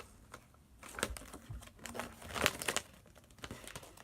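Paper and plastic packaging crinkling and rustling as it is handled, with scattered light clicks and taps.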